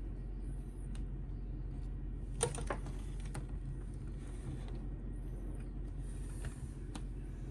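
A few sharp plastic clicks, the loudest pair about two and a half seconds in, as parts of an Optimus Prime action figure with the DK15 Jetwing upgrade kit are moved and snapped into place. A steady low hum runs underneath.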